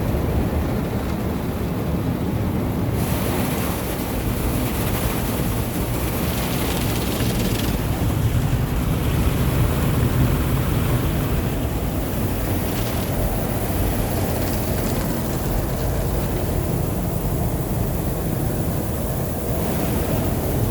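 Car wash water spraying and pouring onto the van's body, heard from inside the vehicle: a steady rushing hiss that grows brighter about three seconds in. Part of the water is leaking from a split supply hose that keeps hitting the side of the van.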